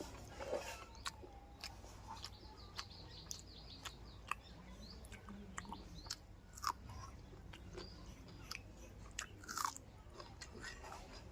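A person chewing food close to the microphone, with many short, sharp crunching clicks at an irregular pace.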